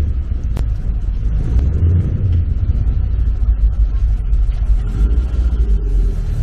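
Talbot-Matra Murena's mid-mounted four-cylinder engine running as the car drives slowly past, a steady low exhaust note.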